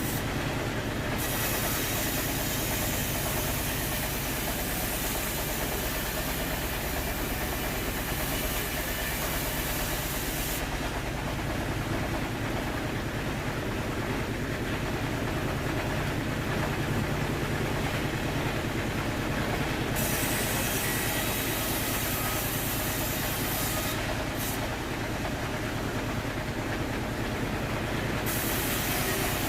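Sawmill machinery running: a steady low motor hum, with a loud high hiss that comes and goes in stretches of several seconds.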